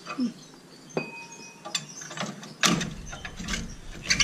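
Metal hand tools and brake parts clinking and clanking during work on a truck's brakes: a ringing metal clink about a second in, and a heavier clank a little past halfway.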